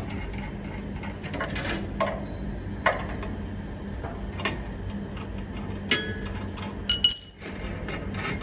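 Scattered clinks and knocks of tools and metal parts being handled while a screen printing machine is taken apart, with one louder metallic clang that rings briefly about seven seconds in, over a steady low hum.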